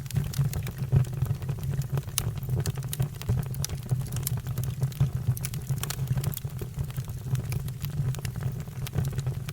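Fire burning, with many irregular crackles and pops over a steady low rumble.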